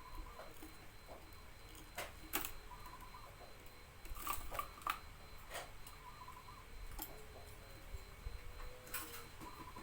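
Scattered clicks and taps, a few close together about four to five seconds in, with a few faint short tones. Quiet cage sounds between bouts of zebra dove cooing.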